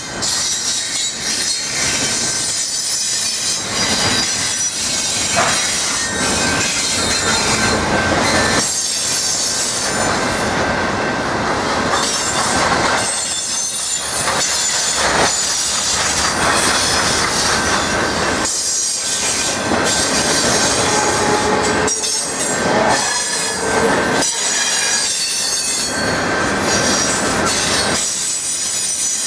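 Intermodal freight train's container and trailer cars rolling past, their steel wheels squealing with a steady high whine over a continuous rumble, with irregular clanks from the wheels and couplers.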